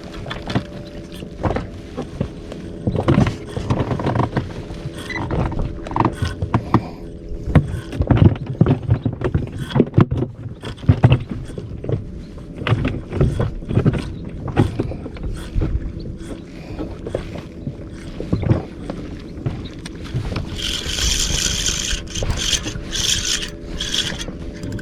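Irregular knocks, clicks and scrapes of fishing tackle being handled against an inflatable boat, over a steady low hum. Near the end comes a few seconds of brighter whirring and hissing.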